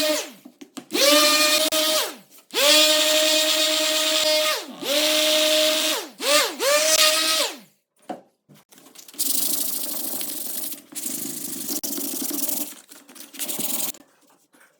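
A small electric power tool triggered in short runs, speeding up to a steady whine and winding down each time, five times in the first half. Then a rougher, grinding run of the tool working against the part, breaking off near the end.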